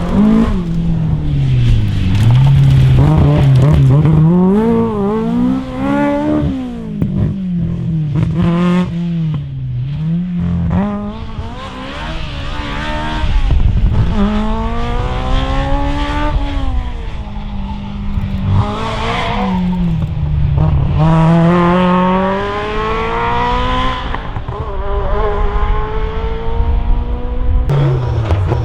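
Rally car engines revving hard, the pitch climbing and dropping again and again through gear changes and lifts.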